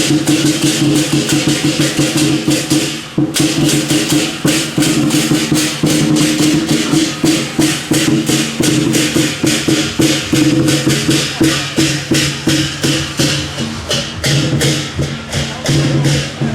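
Procession music: sustained low held notes over a steady rhythm of percussion strikes, about four a second.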